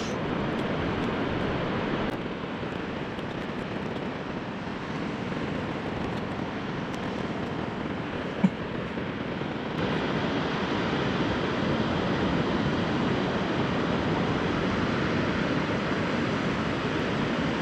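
Steady rush of sea surf washing on the shore, a little louder from about ten seconds in, with a single short tap near the middle.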